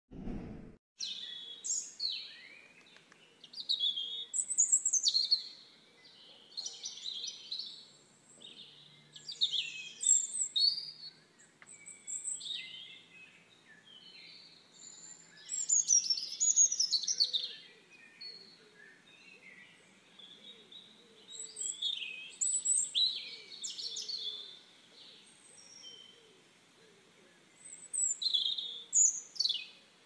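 Songbirds singing: bursts of quick, high chirps and falling notes that come every few seconds with short pauses between.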